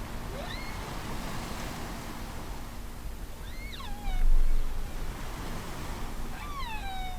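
Whale calls over a steady wash of sea noise: three long cries, each rising briefly and then gliding down in pitch, about three seconds apart. A louder swell of low surf noise comes about four seconds in.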